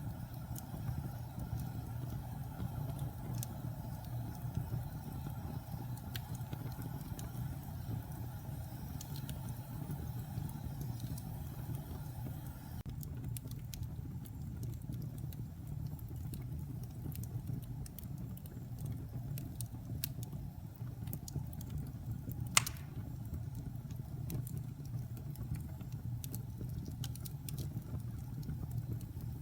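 Wood fire burning in a fireplace: a steady low rumble of flames with scattered small crackles of the burning logs and one louder pop about three-quarters of the way through. A higher hiss in the flames dies down a little before halfway.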